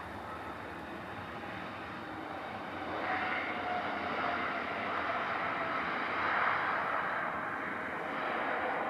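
Jet airliner engines, a steady rushing noise with a faint whine in it, growing louder about three seconds in.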